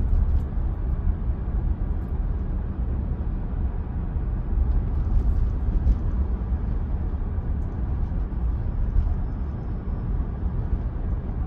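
Steady low road and tyre rumble inside the cabin of a moving Tesla Model Y, an electric car with no engine sound.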